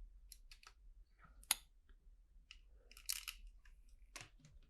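Faint clicks of plastic LEGO bricks being handled and pressed together. There is one sharper snap about a second and a half in, and a run of small clicks around three seconds in.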